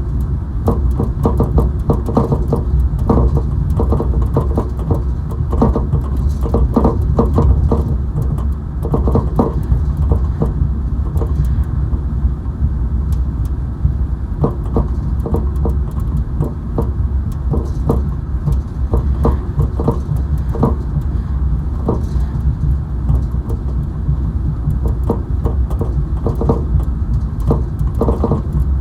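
Road noise inside a moving car's cabin: a steady low rumble, with frequent short rattles and knocks throughout.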